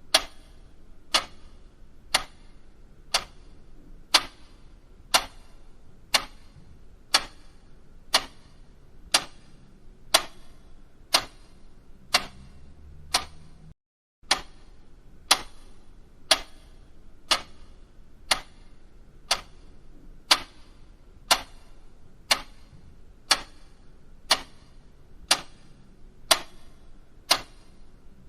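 Clock ticking steadily, about one tick a second, used as a quiz countdown timer sound effect. The ticking breaks off for a split second of silence about halfway through, then carries on.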